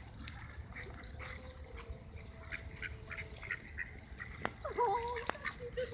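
A flock of ducks quacking softly, many short, faint calls overlapping, with a slightly louder call near the end.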